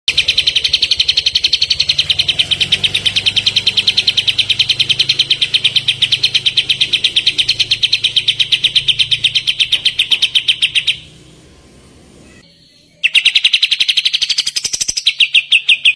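A songbird singing a rapid, rattling trill of sharp repeated notes, about ten a second. The trill stops about eleven seconds in and starts again two seconds later.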